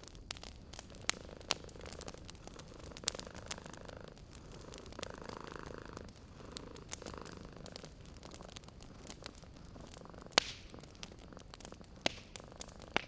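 Cat purring steadily and closely, with a wood fire crackling alongside: scattered sharp pops, the loudest about ten seconds in.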